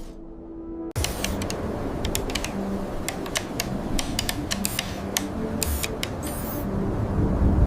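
Mechanical sound effects: a run of irregular sharp clicks and ticks over a low, steady mechanical hum, starting about a second in.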